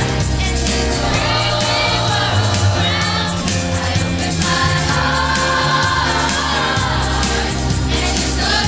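A choir singing a Christmas song with instrumental backing and a steady bass.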